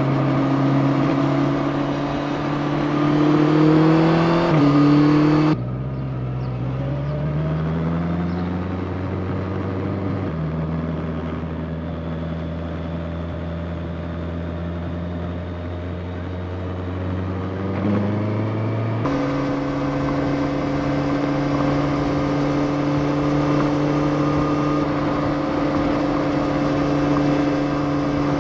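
Motorcycle engine under way, rising in pitch as it accelerates in the first few seconds. About five seconds in the sound changes abruptly to a duller, lower engine note that climbs and then holds steady. Near the end it switches back to a brighter, steady cruising note.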